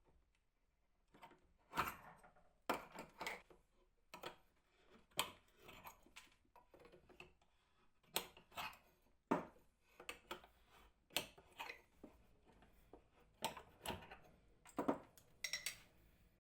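Irregular short clicks, knocks and light scrapes of hard objects being handled and set down, about one or two a second with brief pauses between.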